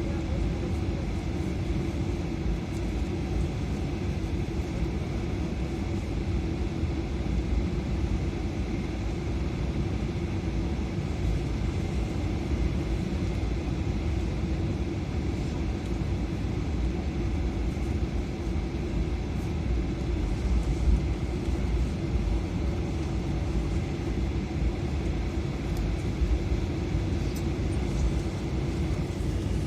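Steady low rumble and hum inside an Airbus A320's cabin as the airliner taxis after landing, the engines at low thrust and the wheels rolling on the taxiway.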